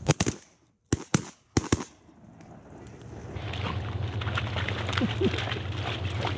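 A volley of shotgun blasts, about six sharp shots in three quick pairs within two seconds, from several hunters firing at a passing duck. A steady rushing noise then builds from about three seconds in.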